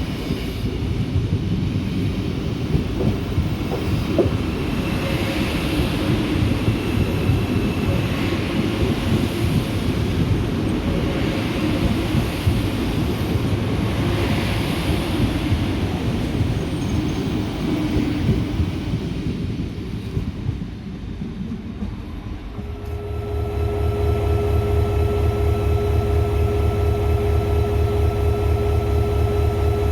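A train rolling on the rails, with a heavy rumble and irregular wheel clatter. About two-thirds of the way through the rumble dies down, and a steady machine hum with several held tones starts and keeps going.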